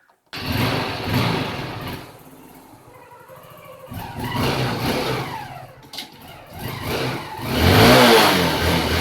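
Hero Honda Hunk motorcycle's 150 cc single-cylinder four-stroke engine being ridden, revving up and easing off. The sound swells several times and is loudest about eight seconds in, where it falls in pitch as the bike goes by.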